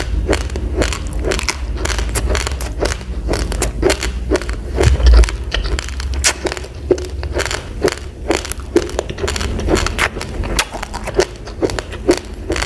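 Raw, uncooked rice being chewed close to the microphone: a dense, irregular run of sharp crunches and cracks, several a second.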